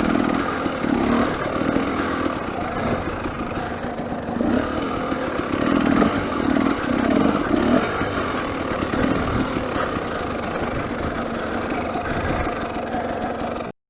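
300 cc two-stroke dirt bike engine running, its pitch swelling and dropping as the throttle is opened and closed. The sound cuts off suddenly near the end.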